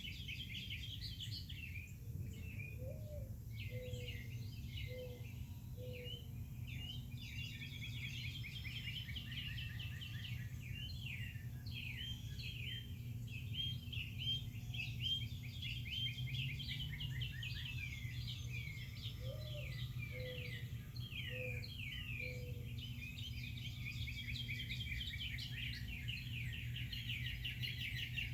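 Many songbirds singing and chirping together. Twice, well apart, a lower call of about five notes is heard: one rising note followed by four short notes. Under the birds is a steady low background rumble.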